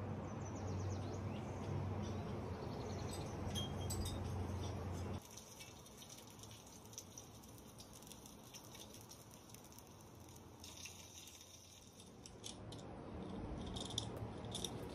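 Faint close-up eating sounds: chewing a hotdog bun, with many small clicks. A low steady hum sits under it for the first five seconds, then drops away suddenly.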